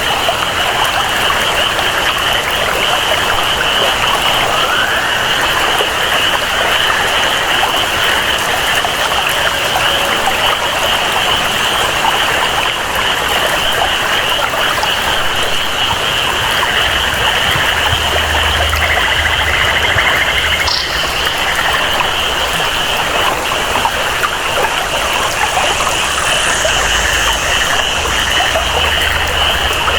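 Steady tropical rainfall and flowing water, with a constant high-pitched jungle chorus running over it.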